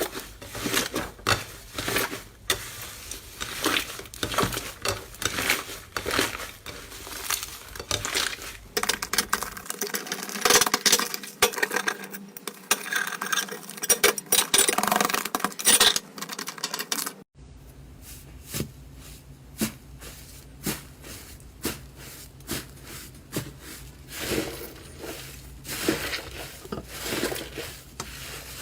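Slime being squeezed and worked by hand, giving a dense, irregular run of small clicks, pops and crackles. The sound changes abruptly about ten seconds in and again near the middle, as one clip of slime handling gives way to another.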